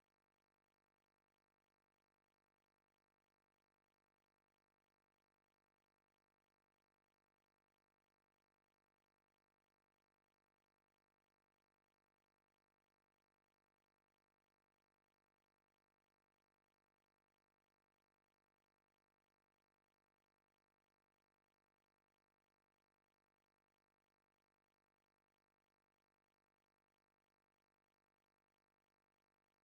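Near silence: the soundtrack is essentially empty, with only a faint steady noise floor.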